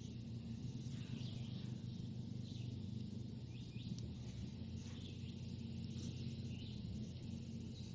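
Faint small-bird chirps, short high calls every second or so, over a steady low hum.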